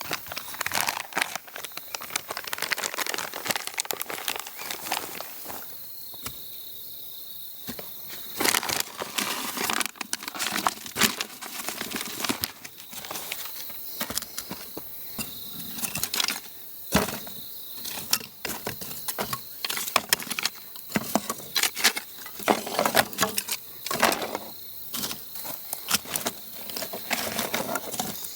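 Rustling, snapping and crackling of a campfire being built and lit, with many sharp irregular clicks. A steady insect chirr joins about six seconds in.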